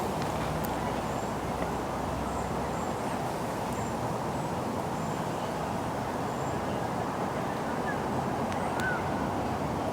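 Steady outdoor background rush with no speech, and a few faint bird chirps near the end.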